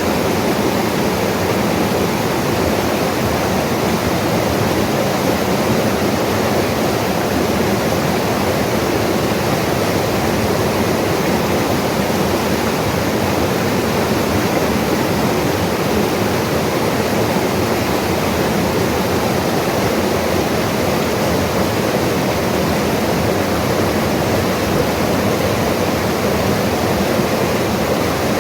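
Mountain river rushing over rocks: a steady, even roar of flowing water without a break.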